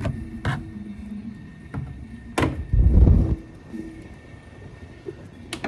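Tools and engine-bay parts being handled while a screw-fastened intake piece is removed: scattered clicks, a sharp knock about two and a half seconds in, then a loud low rumbling scrape lasting under a second.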